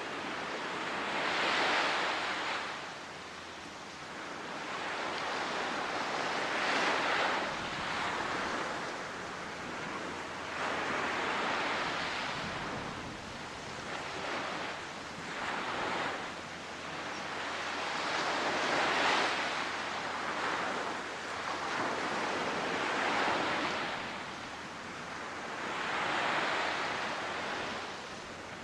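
Ocean surf: waves breaking and washing in one after another, swelling and falling away about every four to five seconds.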